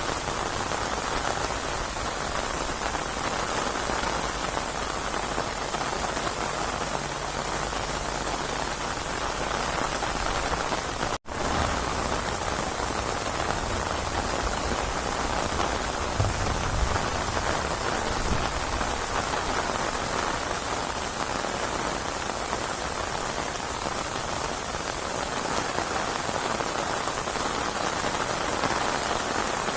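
Steady heavy rain falling on surfaces, an even hiss of many drops. The sound cuts out for a split second about eleven seconds in.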